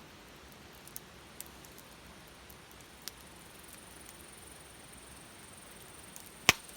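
Wood fire burning with sparse pops, then one loud sharp crack near the end.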